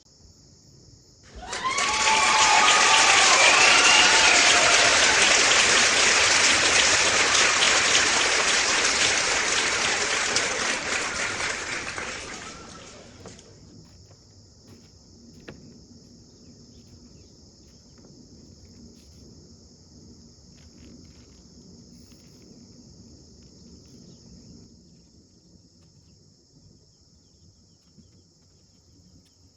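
A loud, even rushing noise starts about a second and a half in and fades out after about eleven seconds. Crickets chirr steadily throughout.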